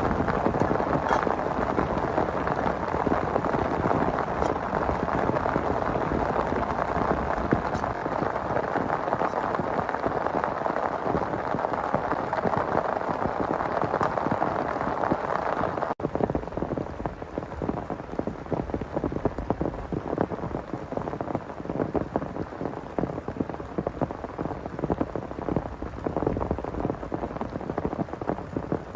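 Heavy rain falling steadily, a dense patter of drops on a surface. About halfway through the sound changes abruptly to a thinner patter with more separate drops.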